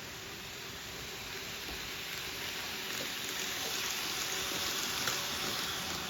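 N-gauge model train running along the layout track: the rushing rumble of its wheels on the rails and a faint motor hum, growing louder as it comes closer.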